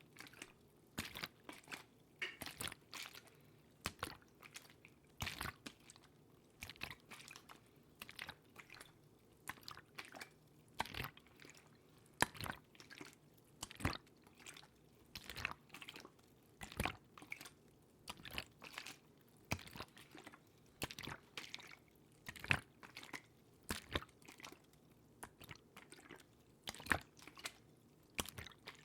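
Close-miked ASMR water sounds: wet clicks and squishes in irregular clusters, several a second.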